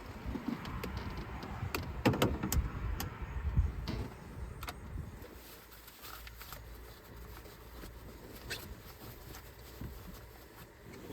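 Handling noises in a vehicle cab: a run of sharp clicks and rustles with a few low thumps for about four seconds, then quieter with a faint steady low hum.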